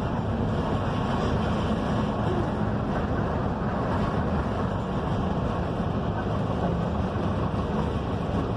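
Mercedes-Benz OF-1721 BlueTec 5 bus running steadily on the road: a constant low engine note under road and tyre noise.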